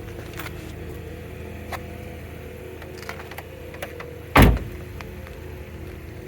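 Steady low hum inside a 2018 Buick Cascada, with a few light clicks and handling noises, and one heavy thump about four and a half seconds in: a car door shutting.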